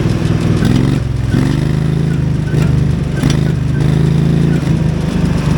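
16 hp Briggs V-twin engine on a homemade tractor running loud through a 2-inch exhaust pipe while turning the original Iseki diesel crankshaft and gear train. It is revved twice: the engine note dips, then climbs, about a second in and again a little after three seconds.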